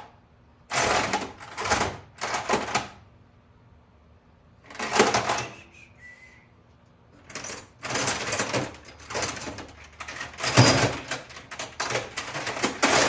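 Metal sockets and wrenches clattering and clinking in bursts as hand tools are sorted and handled, with a denser run of clinks through the second half.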